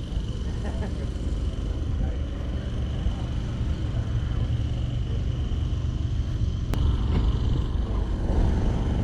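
Car engine idling with a steady low rumble. A single sharp click comes about seven seconds in.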